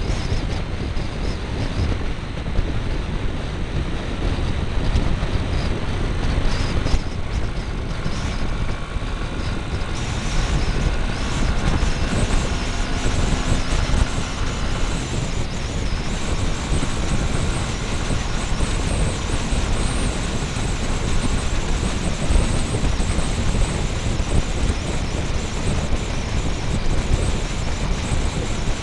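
Motorbike running on the road, heard through a small camera fixed to the bike: a steady rush of wind and engine noise, heaviest in the low end, with a faint whine coming and going about ten seconds in.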